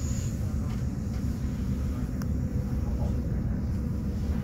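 Steady low rumble of a passenger train's wheels and running gear heard from inside the carriage as it rolls along, with a faint steady whine.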